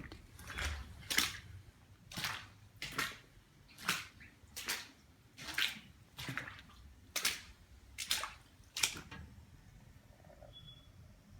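Water splashing or sloshing in a small room in about ten separate strokes, a little under one a second, that stop about nine seconds in.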